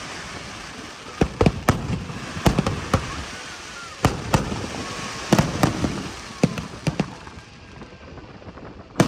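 Fireworks display: about a dozen sharp bangs of bursting shells at uneven intervals, some in quick pairs, over a steady hiss.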